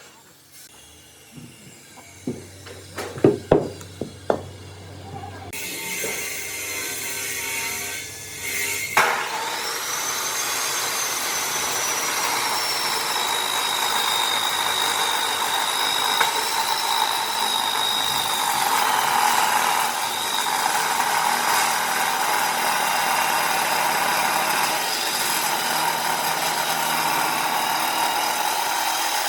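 A few sharp knocks on wood, then a power tool starts up about nine seconds in and runs steadily on wood, with a high whine that slowly drops in pitch.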